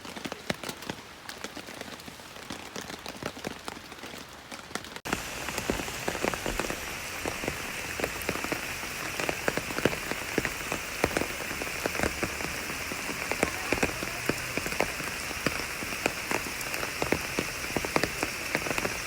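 Rain from an approaching typhoon, in its early stage, falling as many small drops striking a surface. About five seconds in it suddenly becomes louder and denser.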